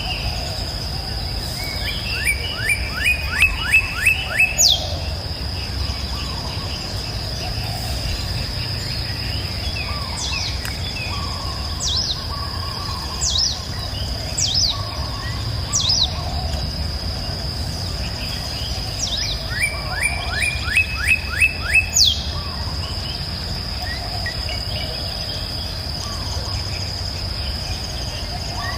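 Songbirds singing: two loud phrases of rapid repeated notes, about two seconds in and again about twenty seconds in, with scattered single chirps between them. A steady high insect drone and a low, even rush of water run underneath.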